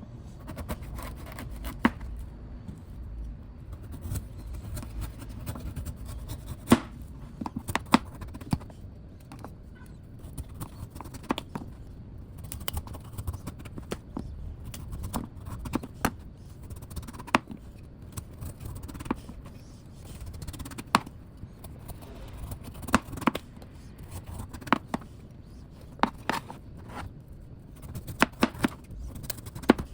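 Bottle gourd being cut up by hand: irregular sharp clicks and knocks of the blade, with scraping, over a low steady rumble.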